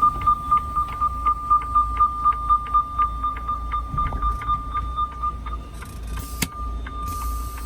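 Rapid electronic beeping, about four or five beeps a second, over the low rumble of an idling semi-truck diesel engine. About five seconds in the beeping gives way to a fainter steady tone, and a sharp click follows about a second later.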